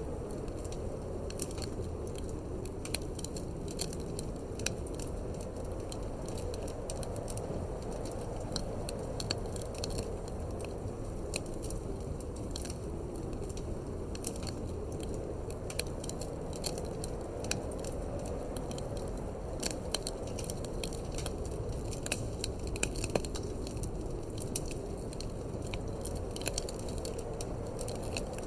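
Wood fire crackling in a fireplace, with irregular sharp pops and snaps over a steady low rush of wind.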